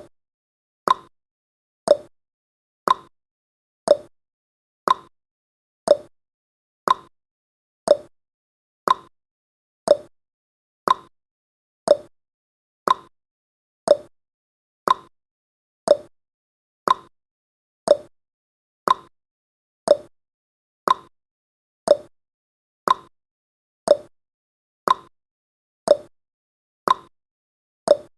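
Ticking sound effect of a countdown timer: one short, sharp tick every second, marking off the seconds.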